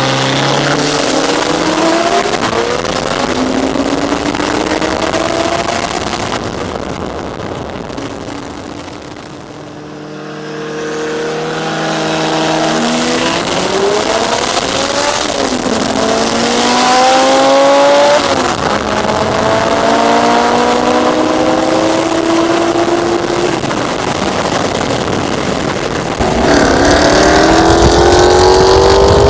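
High-performance car engine under hard acceleration, its pitch climbing and then dropping at each upshift, repeated through several gears. It eases off about ten seconds in, then pulls hard again, louder near the end.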